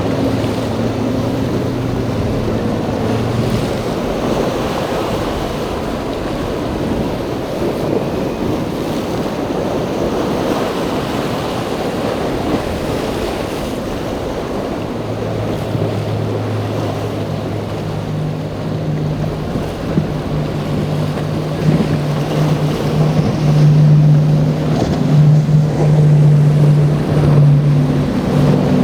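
Waves and wind noise on the microphone with boat engines droning. One engine hum fades out a few seconds in; another comes in about halfway, rises in pitch and grows louder near the end.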